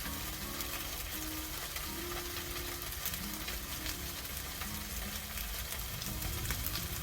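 Food sizzling and crackling in a hot pan, steady throughout.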